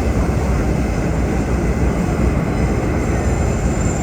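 Vintage R1-9 subway car running, a steady loud rumble of wheels and traction motors heard from inside the car, with a thin high whine coming in near the end.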